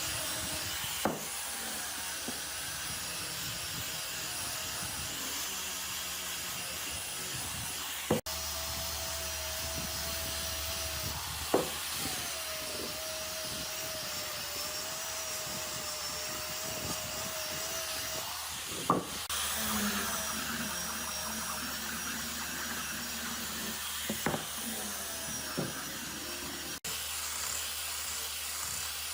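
A power tool running steadily on wood, with a steady motor whine from about eight seconds in to about eighteen seconds in, and a few sharp knocks of wood scattered through.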